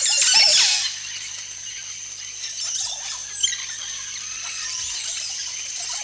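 Oropendolas calling at their colony of hanging nests. A loud burst of wavering, squealing calls comes in the first second, followed by scattered chirps and a whistle that falls in pitch about three and a half seconds in.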